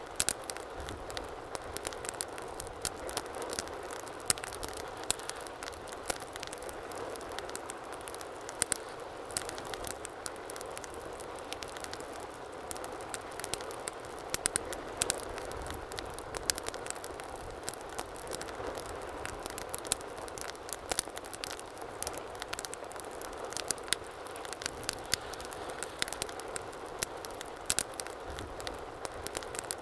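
Wood fire burning in a fireplace: a steady low hiss of flames with irregular sharp crackles and pops from the burning logs.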